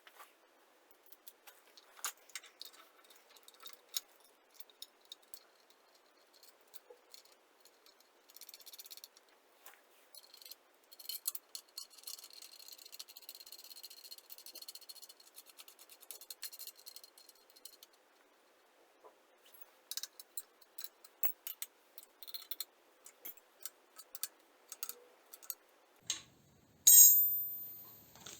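Scattered small metallic clicks and rattles of a bolt, nut and hand tools being fitted to the compressor's belt tensioner, with a stretch of faint scraping in the middle. A brief, much louder sharp sound with a high thin ring near the end.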